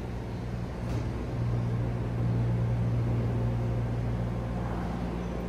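Tokyo Metro 13000 series commuter train standing at the platform, its onboard equipment giving a steady low hum that swells about a second in and eases off near the end.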